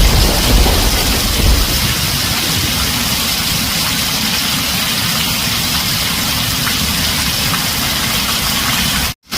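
Heavy rain drumming steadily on a tin roof, a dense even hiss. A low thunder rumble fades out in the first couple of seconds, and the sound cuts out completely for a moment near the end.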